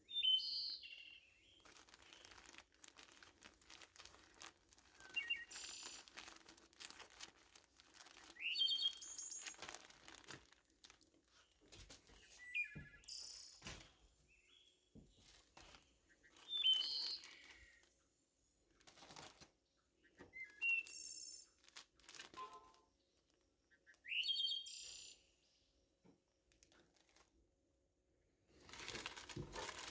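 A songbird singing a short rising, chirpy phrase about every four seconds, with faint crinkling of plastic bags being handled between phrases.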